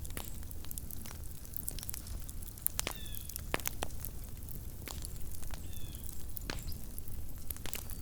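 Small wood campfire crackling: irregular sharp pops and snaps over a low steady rumble. Two brief faint squeaks come about three and six seconds in.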